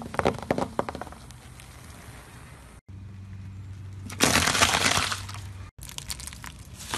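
A car tyre rolling over and crushing objects. Sharp crackles as a red ball flattens in the first second, then a loud dense crunch of celery sticks snapping under the tyre about four seconds in, over a low steady hum. Lighter scattered crackles near the end.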